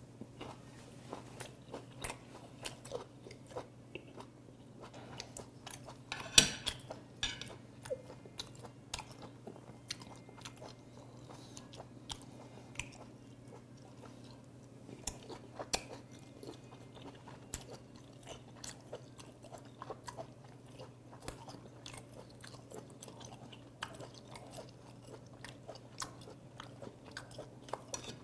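Close-up chewing of firm, chewy sea hare (Aplysia) meat: a steady run of small wet clicks and crunches from the mouth, with one sharper click about six seconds in.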